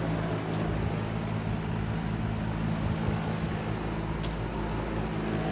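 Steady low machine hum: a constant drone of several low tones under a noisy wash.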